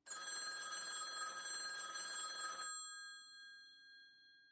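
Telephone bell ringing once for about two and a half seconds. It stops suddenly, and its tone then fades away.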